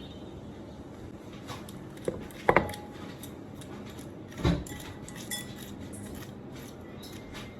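A kitchen knife knocking on a cutting board while a canary melon is cut: a few separate sharp knocks, the loudest a double knock about two and a half seconds in and another about four and a half seconds in.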